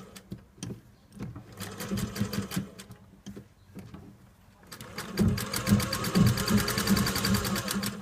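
Sewing machine stitching in quick, even strokes, in a short run and then, after a pause of about two seconds, a longer run: a second line of reinforcing stitches sewn over a seam.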